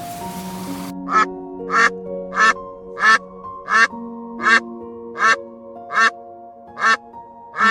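An animal calling over and over: about ten short, evenly spaced calls, roughly one every 0.7 s, starting about a second in, over soft piano music. A hiss-like noise stops abruptly just before the calls begin.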